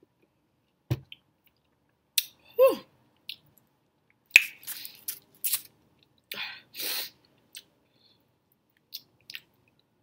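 Close-miked eating sounds: a sip through a straw, then biting and chewing a soft raisin bagel with cream cheese and beef sausage. The sounds come as scattered short wet mouth noises and lip smacks, busiest around the middle.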